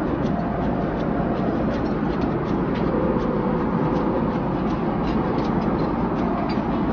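Steady low rumble of cabin noise inside a Boeing 777-300ER airliner, with faint light clicks scattered through it.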